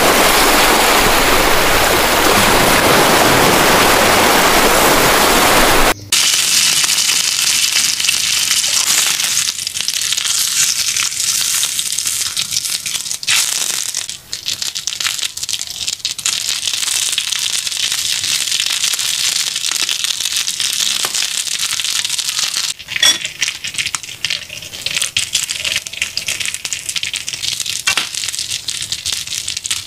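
Wood fire burning with a loud, even rush. After a cut about six seconds in, fish grilling on a hot cast-iron plate, sizzling and spitting with many fine crackles.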